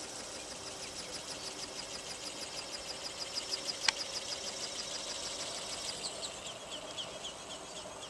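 Small electric motor and gearbox of a radio-controlled flapping-wing model bird whining high, with a regular wing-beat pulse about four to five times a second. There is one sharp click about four seconds in, and about six seconds in the pitch drops as the throttle comes down.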